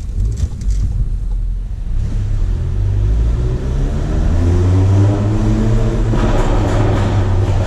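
Turbocharged 2.0-litre four-cylinder of a MK7 VW GTI with an APR Stage 2 tune and CTS downpipe, running low and then accelerating, its engine note rising in pitch from about three seconds in. Near the end the exhaust turns louder and rougher, inside a parking garage.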